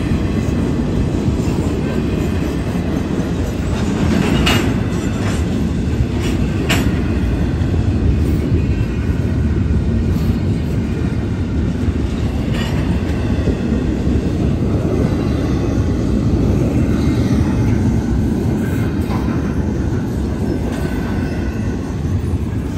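Double-stack intermodal freight cars rolling past close by, a steady loud rumble of steel wheels on rail. Two short sharp sounds stand out, about four and a half and seven seconds in.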